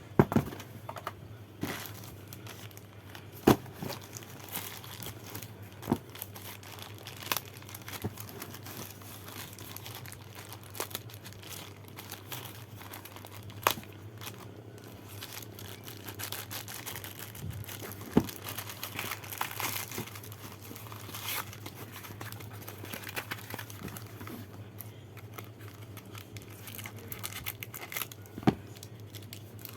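Packaging being opened by hand: crinkling and tearing with irregular sharp clicks and knocks, over a steady low hum.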